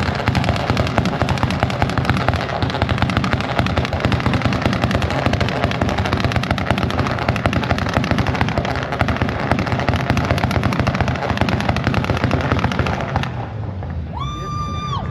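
Audi A4 held on its 2-step launch limiter, the exhaust firing off a fast, continuous string of pops and bangs for about thirteen seconds before cutting off. A short high steady tone follows near the end.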